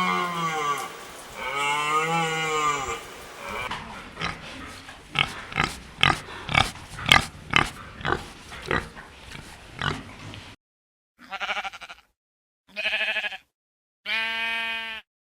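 Farm animal calls. A cow moos just at the start and again about two seconds in, then comes a run of about a dozen short grunts, and near the end three short, separate pitched calls.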